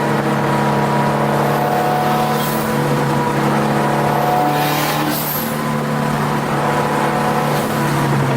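Turbocharged Subaru WRX STI track car's flat-four engine running at a fairly steady pitch, heard from inside the cabin. Two brief hissing swishes come about two and a half and five seconds in.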